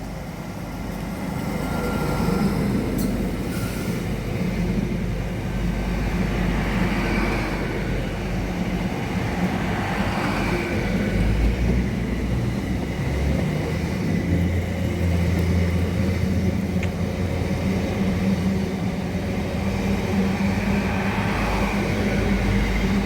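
Ten-car LNER Hitachi Azuma train (Class 800 and 801 units coupled) running through the station without stopping, with a steady rumble of underfloor engines and wheels on the track.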